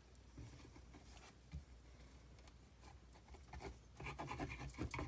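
Faint rustling, rubbing and light taps of paper being handled and pressed into place on a journal page, growing louder and busier about four seconds in.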